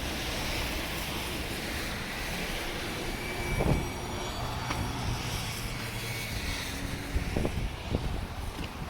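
Steady rumble of road traffic on the bridge mixed with wind on the microphone, with a few short thumps partway through and near the end.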